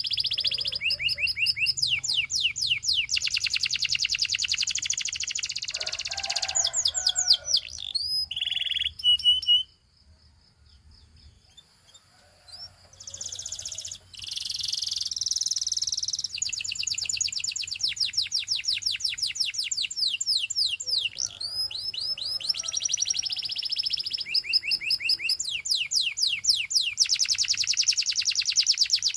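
Domestic canary singing: long runs of very fast trills and rolls, broken by a short pause about ten seconds in, where a held high whistle sounds before the rapid trills start again.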